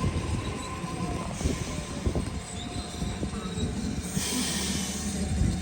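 A train running on the rails: a steady low rumble with a few thin squealing tones from the wheels, and a short hiss about four seconds in.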